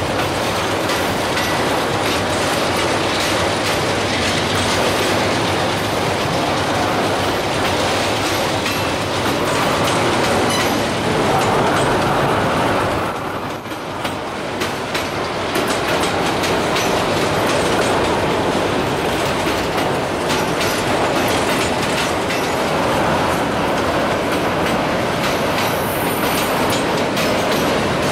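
Empty autorack freight cars rolling slowly past at close range, a steady rumble with the wheels clicking over the rail joints.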